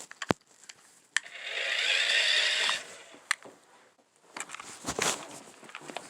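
Electric motor and gears of an RC truck whirring for about a second and a half, then cutting off suddenly, with scattered clicks and handling knocks around it.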